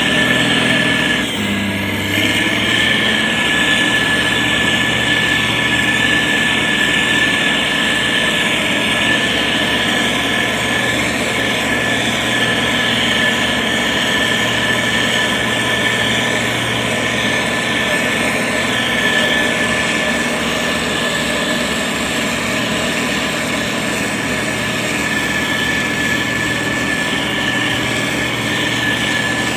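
Diesel engine of a SANY STG190C-8S motor grader running steadily while working, with a steady high whine over the engine note.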